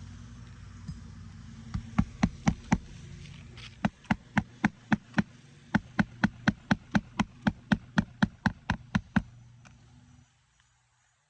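Hammer driving roofing nails through a new asphalt shingle: quick runs of sharp strikes, about five, then six, then a longer run of about fourteen at roughly four blows a second. A steady low hum underneath stops near the end.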